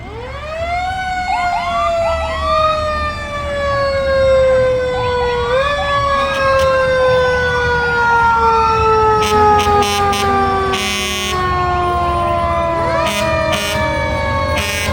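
Fire truck sirens in a parade. A siren winds up quickly, then coasts slowly down in pitch, with another wind-up about five and a half seconds in, while other sirens wind up and overlap it over the low rumble of truck engines. Short sharp blasts cut in during the second half.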